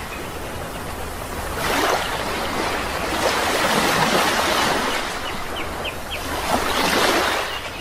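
Sea waves washing onto the shore in a steady hiss that swells every few seconds, with a few short bird chirps about two-thirds of the way through.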